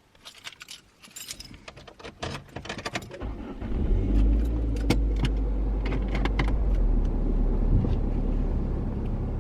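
Keys jangling with a few clicks and knocks, then about three seconds in a car engine starts and runs with a steady low rumble.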